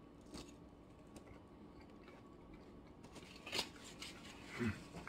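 Faint crunching and chewing of tortilla nacho chips, with a few sharp crunches, the loudest about three and a half seconds in.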